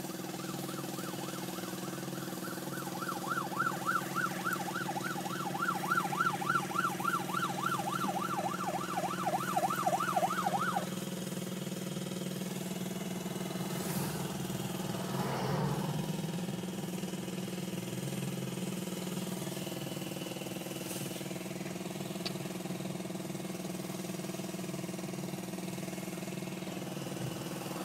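Fire truck siren on a fast yelp, warbling up and down about four times a second, growing louder a few seconds in and stopping about eleven seconds in. A steady low engine hum from an idling vehicle runs underneath.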